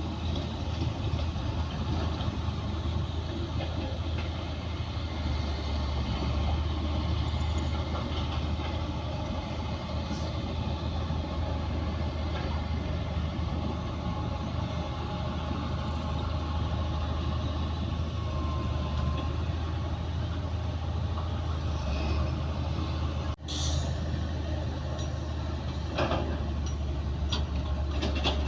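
Bulldozer's diesel engine running steadily with a deep hum, with the clanking and squeaking of its steel tracks rising late on. The sound breaks off for an instant about four-fifths of the way through.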